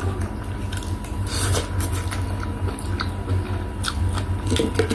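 Close-miked eating sounds: chewing and biting, with irregular short crunchy clicks and wet mouth noises.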